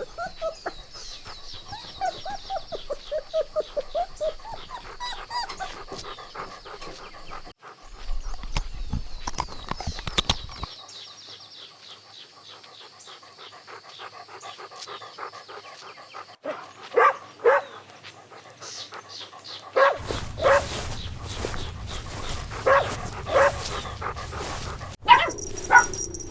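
Puppies yipping and whimpering in quick runs of short high calls, then several louder, sharper barks in the second half.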